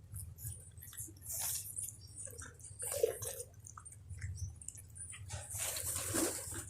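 Cats and pigeons feeding: irregular wet chewing sounds and small clicks and scuffs, with a louder rustling burst near the end.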